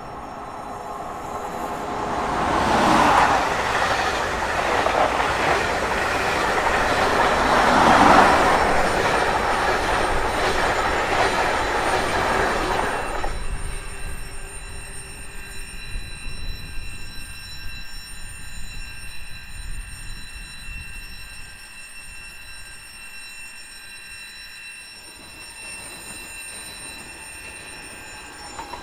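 Two coupled SJ X2000 high-speed electric trainsets passing along the platform. The rumble and rush of the train swell to a loud peak about three seconds in, peak again around eight seconds, then die away after about thirteen seconds, leaving a thin high ringing.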